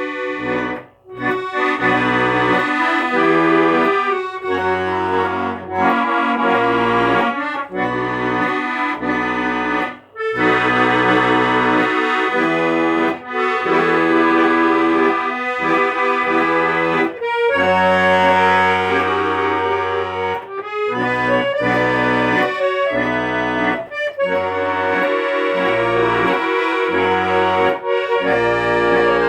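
Accordion playing an instrumental tune: a melody over sustained chords and a changing bass line, with short breaks about a second in and about ten seconds in.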